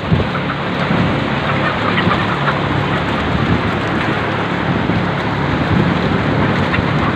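Steady, dense din of a flock of laying hens clucking in a poultry house, over a steady low hum.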